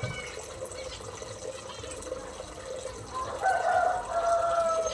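A rooster crowing once in the aviary, a drawn-out two-part call starting a little past halfway and sagging slightly in pitch, over faint chirping of small birds and a steady background hum.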